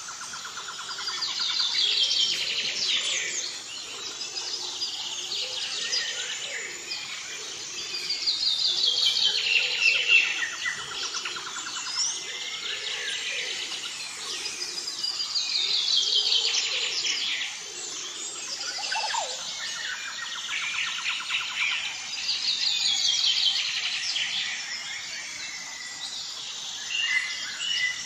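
Birds chirping and singing, with rapid falling trills that swell again every several seconds.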